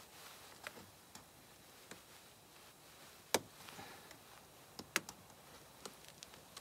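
Scattered sharp clicks and light taps of hand work with metal tools and fittings, the loudest two about three and a half and five seconds in.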